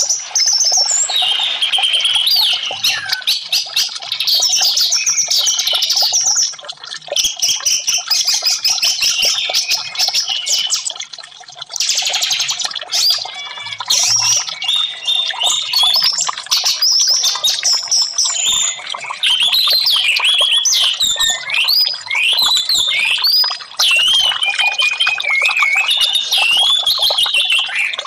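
Orange-headed thrush (anis merah) singing continuously: a long run of varied, fast-changing whistled and warbled phrases, broken by runs of quick rattling notes.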